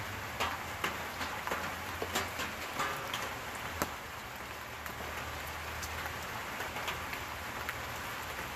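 Heavy rain falling steadily, with many irregular sharp drop ticks over a continuous hiss.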